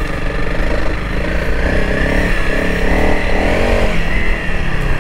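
Honda CRF300L Rally's single-cylinder engine running under way off-road, its pitch rising and falling with the throttle.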